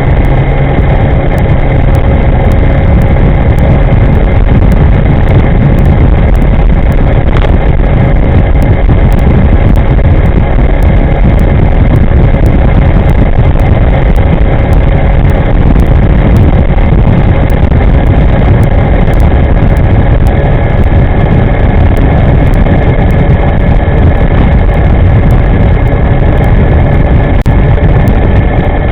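Wind rushing over the microphone of a moving e-moving electric scooter, with a faint steady whine from its electric drive running at an even speed.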